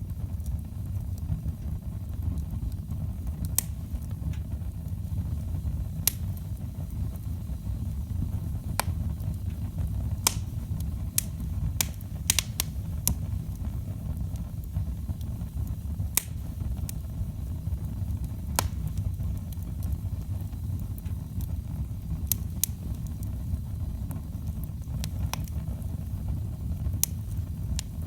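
Firewood burning in a fireplace: sharp, irregular crackles and pops from the burning logs over a steady low rumble.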